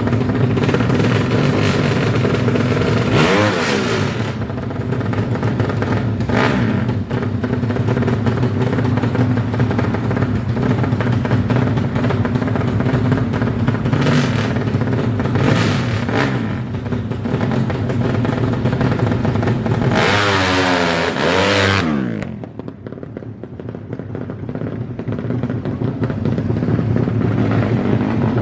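DOHC drag-race motorcycle engines running loudly, with the pitch sweeping up and down about three seconds in and again around twenty to twenty-two seconds in, after which the sound drops off.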